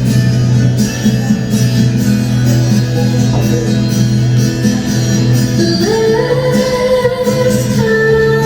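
Live band music with percussion, a singer coming in about six seconds in with long held notes.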